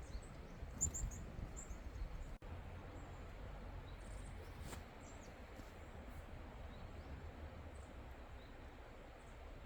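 Forest ambience: a few faint, short, high bird chirps, clustered in the first two seconds and again around four to five seconds in, over a steady low rumble. The sound drops out for an instant about two and a half seconds in.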